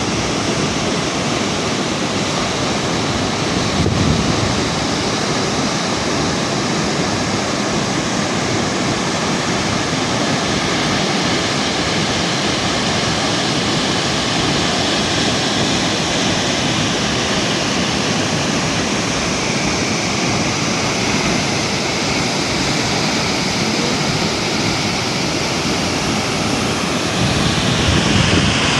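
Thomson's Falls waterfall making a loud, steady rush of falling water, with a brief low thump about four seconds in.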